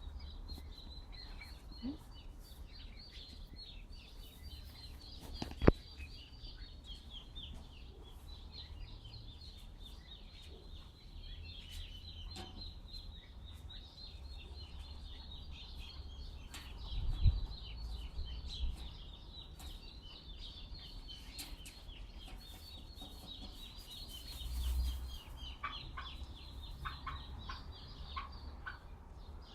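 Small birds chirping continuously in many quick overlapping calls, over a low wind rumble on the microphone that swells in gusts a couple of times. A single sharp click about six seconds in.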